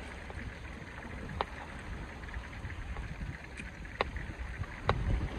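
Steady low rumble of wind and surf on an open beach, with three sharp clicks spread through it.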